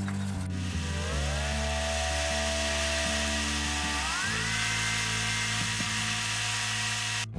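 A small power tool running with a whine that steps up in pitch twice, over background music; the tool cuts off suddenly near the end.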